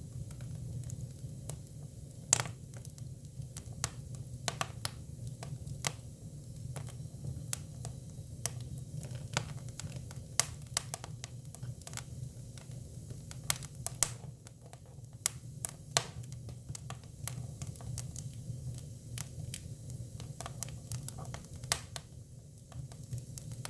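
Hinoki cypress firewood burning, crackling with irregular sharp pops over a steady low rumble.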